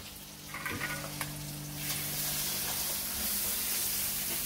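Spice masala of garlic, chilli, tomato and ground spices frying in hot oil in a pan as it is stirred, with a spoon click about a second in. The sizzle grows louder about two seconds in and stays steady.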